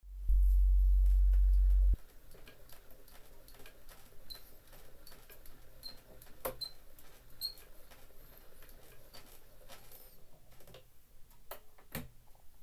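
Steel needle of an HMV 102 wind-up gramophone running in the lead-in groove of a 78 rpm shellac record: surface hiss with scattered crackles and clicks, the loudest clicks about six and a half and twelve seconds in. A loud low hum fills the first two seconds.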